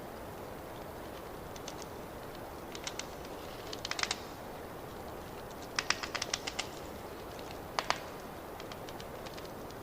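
Wood fire crackling in a fireplace: a steady hiss under sharp pops that come in small clusters, about four seconds in, around six seconds in, and again near eight seconds.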